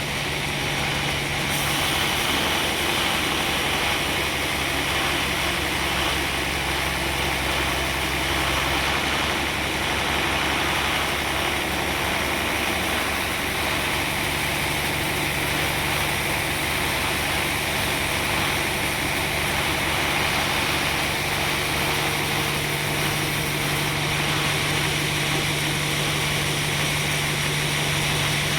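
Sawmill machinery running steadily: a constant engine-driven drone with a broad hiss, holding the same level and pitch throughout.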